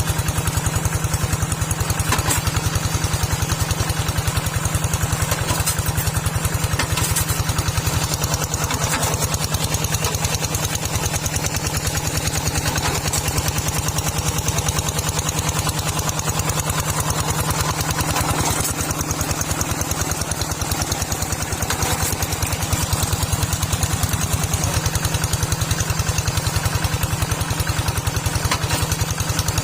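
Small farm tractor's engine running steadily with an even, fast beat.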